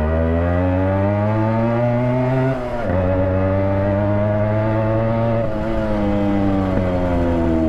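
Yamaha RX100's two-stroke single-cylinder engine, run loud with its silencer mesh removed, pulling under way. Its pitch climbs for about two and a half seconds, drops sharply just before three seconds in, then climbs again and eases off slightly near the end.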